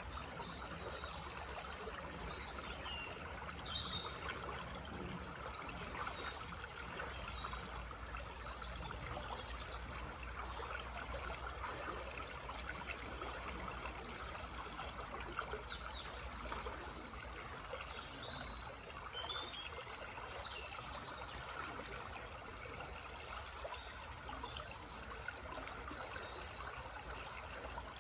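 Small forest stream babbling steadily, with scattered short bird chirps over it.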